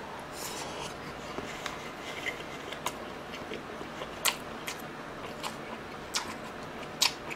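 Close-miked chewing of a mouthful of marinated pork rib and rice: quiet, irregular wet mouth clicks and smacks, a sharper one about four seconds in and another near the end.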